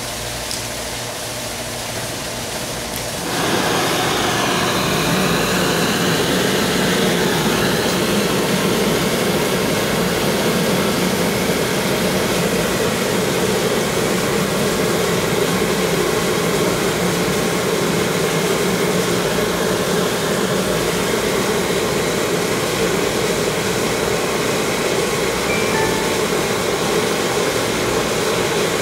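A motor-driven machine starts up suddenly about three seconds in and then runs at a loud, steady level, with a faint sweeping whine in the first few seconds after it starts.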